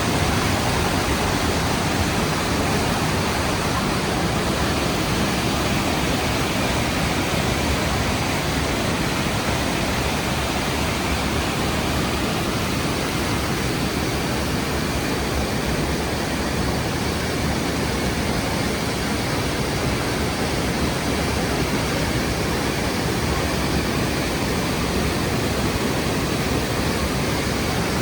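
Rhine Falls, a large river waterfall, pouring in a loud, steady, even rush of falling water.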